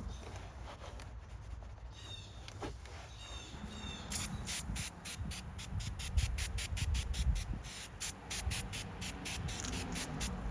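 Microfiber cloth wiping a hard surface inside a car in quick back-and-forth strokes, starting about four seconds in, over a low rumble of road traffic.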